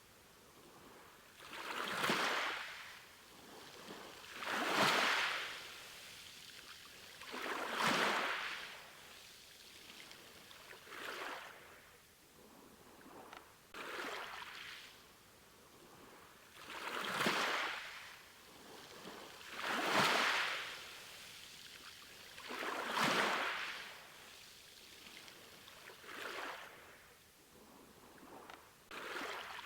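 Sea waves washing onto a shore, one swell of hiss about every three seconds, each rising and then fading away.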